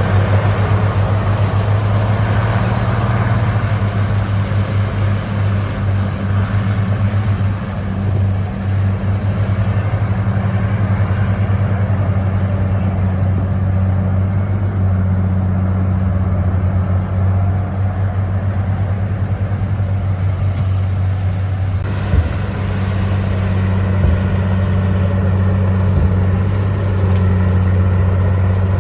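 Komatsu crawler bulldozer's diesel engine running steadily under work, a low continuous drone, with a brief knock or two about three quarters of the way through.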